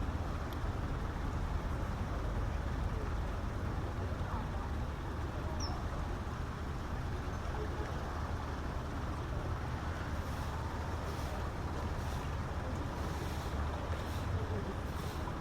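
Steady low outdoor background rumble, typical of distant road traffic, with one faint short high chirp about six seconds in.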